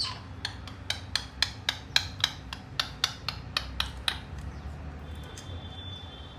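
A rapid run of sharp, hard taps, about four a second, that stops about four seconds in; a faint high steady tone follows near the end.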